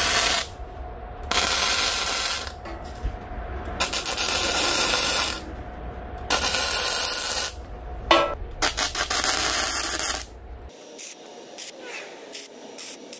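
Electric arc welding in short bursts, five or six crackling hisses of about a second each as steel plate is tack-welded. Quieter scattered crackles and ticks follow in the last few seconds.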